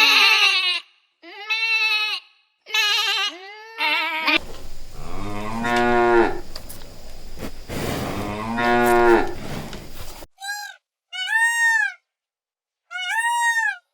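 Cattle mooing: two long, low moos between about five and ten seconds in. Before them come a few shorter, higher animal calls, and near the end a run of short, repeated arching calls.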